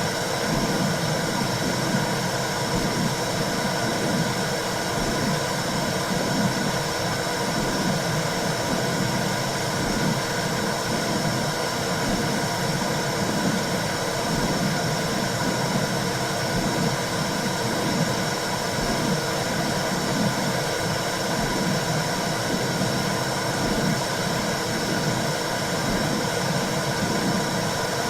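Womb sound for calming a newborn: a steady whooshing noise with a low, rhythmic pulsing beneath it, used as white noise to soothe the baby to sleep.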